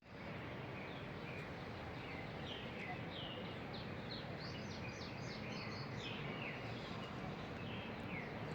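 Small birds chirping: many short, quick falling chirps, busiest around the middle, over a steady background hiss of outdoor ambience.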